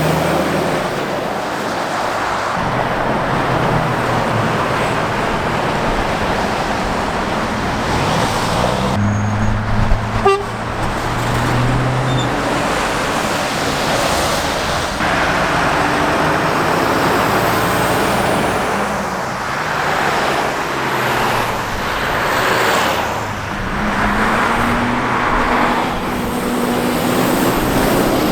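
Heavy road traffic passing close by: lorries and cars with engine and tyre noise, engine notes rising and falling as vehicles go past. About nine seconds in, a horn sounds steadily for about three seconds.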